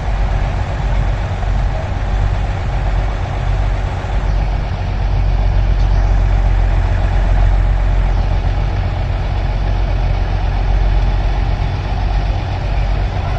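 Farm tractor engine running steadily at low revs, a deep rumble that swells a little for several seconds in the middle.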